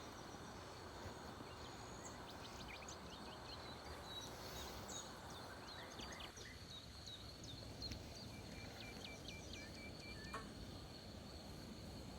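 Faint birdsong in a forest: scattered short high chirps over a steady background hiss, with a quick run of about seven even repeated notes about two thirds of the way in.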